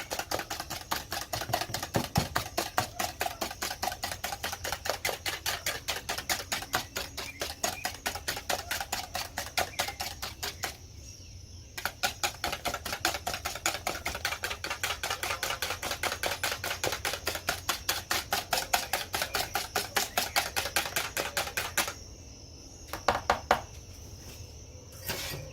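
Eggs and sugar beaten by hand in a bowl: a utensil tapping against the bowl in a fast, even rhythm of about four or five strokes a second. The beating pauses briefly midway and stops near the end, with a few last taps.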